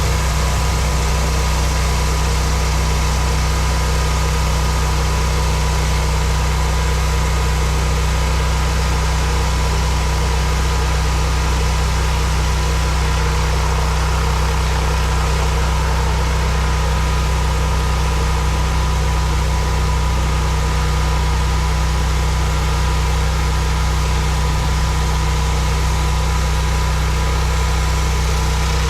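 Pressure washer's gas engine running steadily at constant speed, with an even hiss over the low hum.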